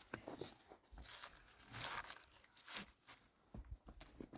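Faint rustling and crinkling of material being handled, in short scattered swishes with a few soft knocks.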